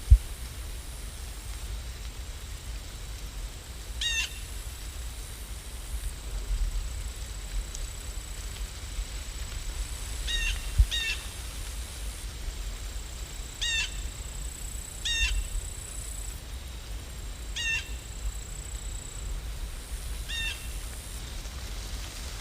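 A bird calling: a short, high chirp repeated about seven times, a few seconds apart, over a low steady rumble.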